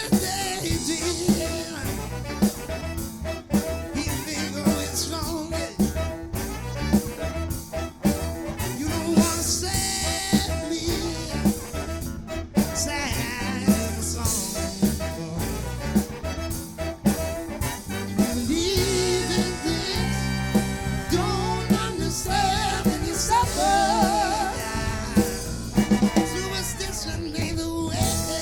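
Live soul band playing an upbeat song with a steady drum kit beat, bass and guitar; about two-thirds of the way through, a wavering melody line comes in over the groove.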